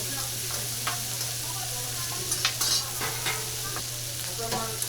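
Pork belly sizzling on a hot iron griddle plate, a steady hiss, with a few sharp clicks and scrapes on the plate, the loudest cluster about two and a half seconds in.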